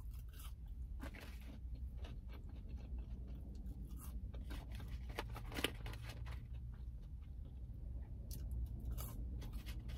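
Close-up chewing and biting of McDonald's french fries: irregular small crunches and wet mouth clicks, over a steady low hum.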